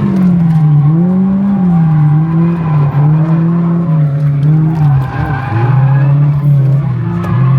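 Drift car engine held high on the throttle, its note rising and falling as the driver works the pedal through a slide, with tyre squeal.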